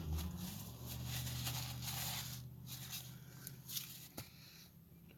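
Rustling and handling noises, with a sharp click about four seconds in, over a low steady hum.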